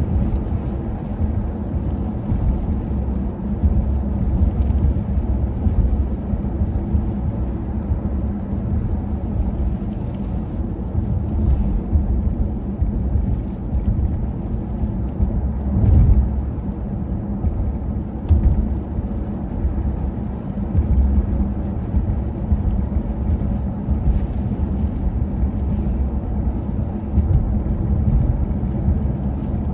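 Low rumbling wind noise buffeting the microphone in blizzard conditions, over a steady low hum, with one sharp thump about halfway through.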